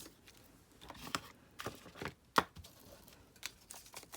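Scrapbook paper being worked by hand: a few short scraping and tearing strokes and one sharp click about two and a half seconds in.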